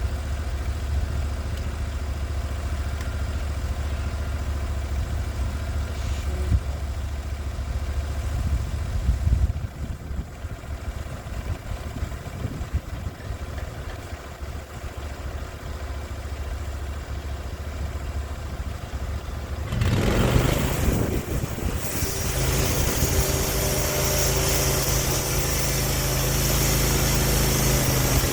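Sawmill engine running at a low idle, then revving up about two-thirds of the way through and running at speed, with a steady high hiss over the engine note.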